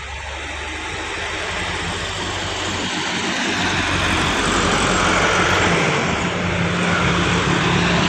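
Heavy truck engine running hard, growing louder as the truck draws near and then holding steady, with a deep hum under a broad rush of engine and road noise.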